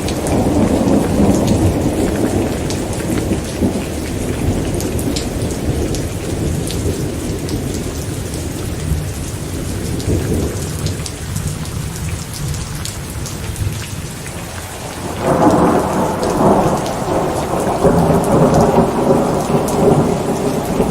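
Steady heavy rain with individual drops ticking, under rolling thunder. A rumble dies away through the first half, and a fresh, louder roll of thunder begins about fifteen seconds in.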